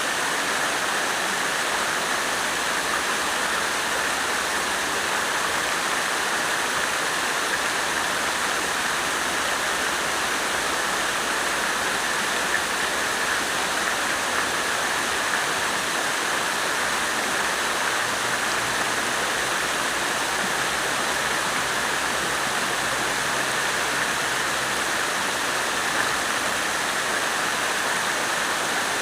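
Water fountain running: falling water making a steady, even splashing rush with no breaks.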